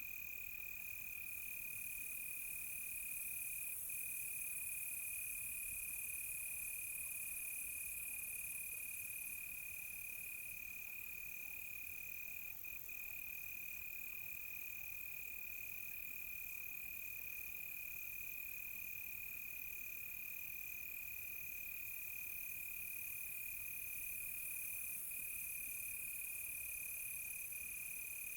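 Crickets chirping at night: one steady, unbroken high trill, with a second, higher insect chirp pulsing about once a second above it.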